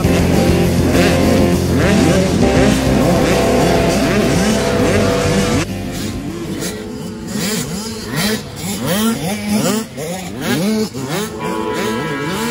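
Loud music cuts off about halfway through, giving way to several motocross bikes racing, their engines revving up in repeated rising sweeps and dropping back as they shift and brake.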